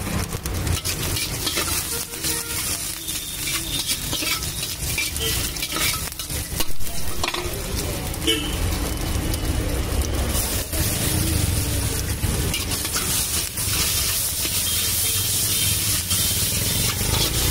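Cubed potatoes, peanuts and curry leaves sizzling in hot oil in a large iron kadhai, with a metal spoon stirring and scraping against the pan. A few sharp clinks stand out, the loudest about seven seconds in.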